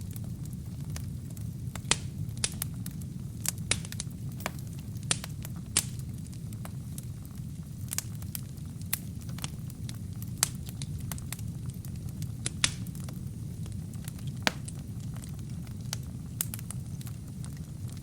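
Wood fire burning, with a steady low rumble of flame and irregular sharp crackles and pops from the burning logs.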